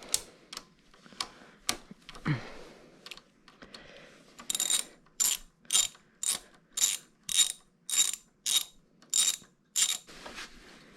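Socket ratchet wrench clicking in a run of quick, even strokes, about two a second, as a bolt is worked on the engine. A few scattered clicks and knocks come before it.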